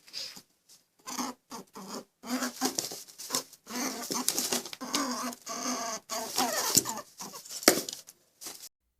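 An animal's rapid chattering calls in quick runs, broken several times by sudden silences.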